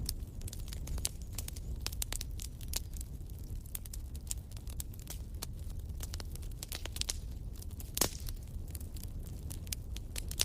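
Fire in a fireplace crackling, with many quick irregular pops over a steady low rumble; one louder pop about eight seconds in.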